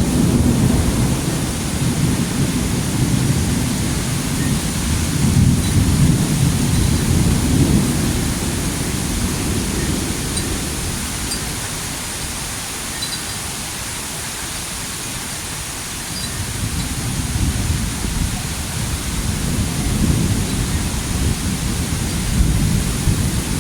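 Thunder rumbling over steady heavy rain. The rumble is loudest in the first few seconds, eases off around the middle, then rolls in again toward the end while the rain's hiss stays even.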